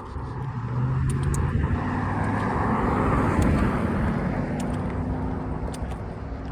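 A car driving past, its engine and tyre noise swelling to a peak about three seconds in and then fading away.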